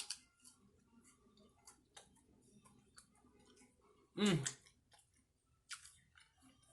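Close-miked chewing and small wet mouth clicks of someone eating. About four seconds in there is a brief, louder voiced sound.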